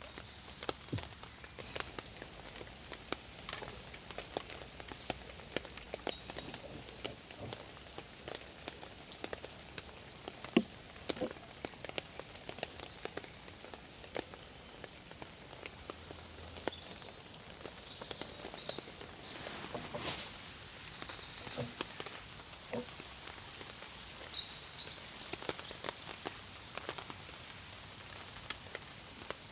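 Rain dripping and pattering irregularly, with scattered sharp drops over a steady hiss; one drop about ten seconds in is much louder than the rest. Faint high chirps come and go in the background.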